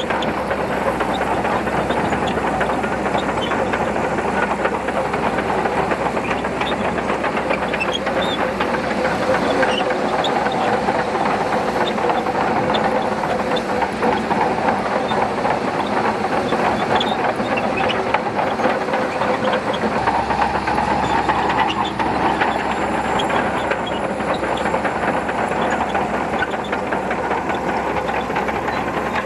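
Shantui DH17C2 crawler bulldozer working sand: its diesel engine runs steadily under load while the steel tracks clank and rattle continuously.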